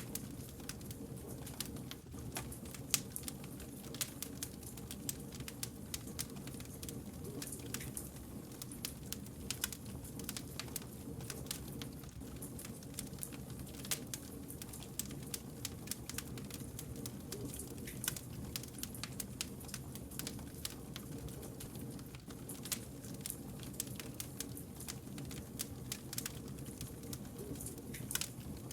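Wood fire burning, crackling and popping irregularly over a steady low rumble of the flames.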